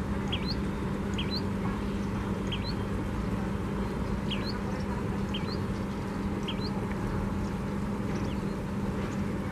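Distant diesel-hauled train running: a steady low hum over a low rumble. Over it a bird repeats a short rising chirp about once a second.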